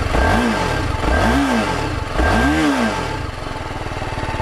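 TVS Apache RR 310's 312 cc liquid-cooled single-cylinder engine, at standstill, revved three times in quick succession, each blip climbing higher, then dropping back to a fast, even idle.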